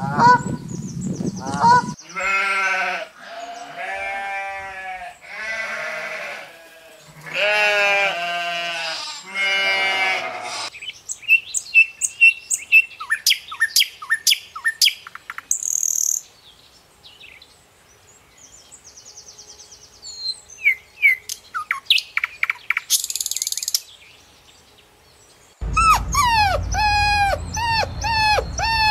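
Animal and bird calls in a run of short clips: repeated wavering calls for about the first ten seconds, then scattered bird chirps and whistles, and dense chirping over background noise near the end.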